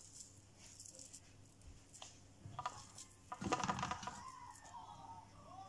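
Faint kitchen handling as boiled broccoli is added to a bowl: a few light clicks and a short scrape about three and a half seconds in.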